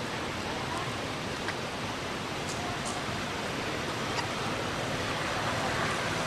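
Steady outdoor background noise, an even rushing hiss that grows a little louder near the end, with a few faint ticks.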